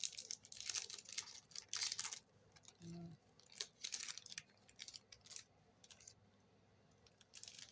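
Foil Magic: The Gathering booster pack wrapper crinkling and tearing open for about two seconds, then scattered light crackles and clicks as the cards are handled.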